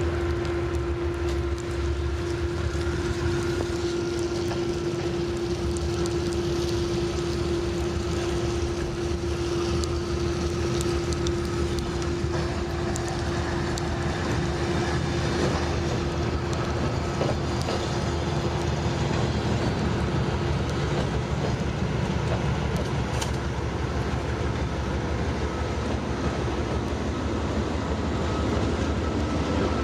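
A train running past, a steady rumble with a constant whining tone that fades about two-thirds of the way through, and a few scattered clicks.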